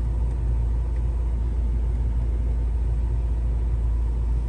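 The MINI Countryman John Cooper Works idles as a steady low rumble, heard from inside the cabin.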